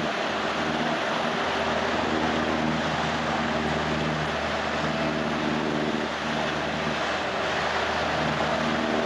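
Motorboat engine running steadily at speed under a constant rush of wind and water noise.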